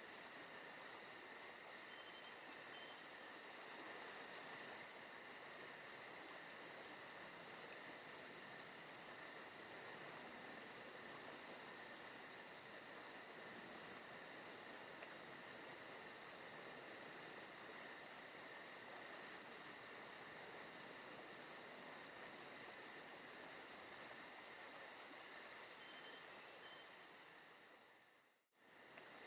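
Faint forest night ambience: a steady chorus of crickets and insects with rapid, pulsing trills. Near the end it fades out briefly and comes back in.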